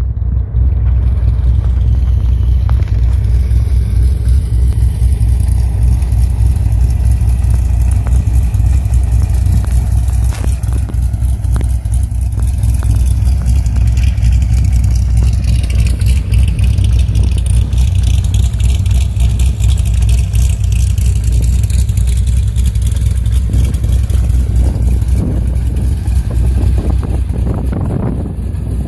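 Cammed, forged 438-cubic-inch stroker LS7 V8 of a 2006 Corvette C6 Z06 idling steadily, heard from outside the car.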